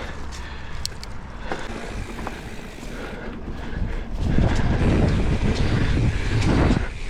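Wind buffeting the microphone of a rider on a mountain bike heading into a jump line. The rush gets much louder about four seconds in as speed builds.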